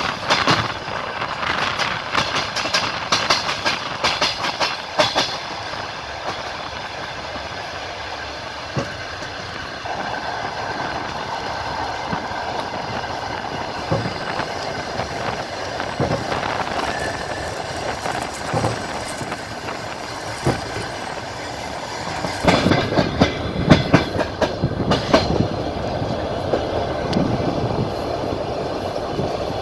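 Passenger train wheels clacking over rail joints as the train runs at speed, with a steady rolling rumble. Dense runs of rapid clacks come at the start and again about three-quarters of the way through.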